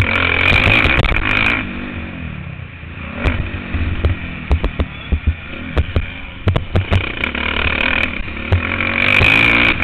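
Motocross bike engine heard on board during a ride: loud at full throttle at the start and again near the end, with the engine note falling as the throttle is closed about two seconds in. Frequent short sharp knocks and rattles run through it.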